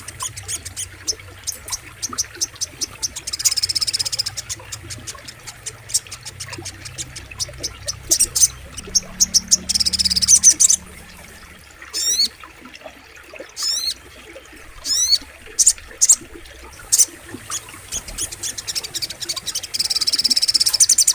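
Sogok ontong (little spiderhunter) calling: rapid, high-pitched repeated chips, coming in dense bursts and looser runs, with a few quick sweeping notes partway through.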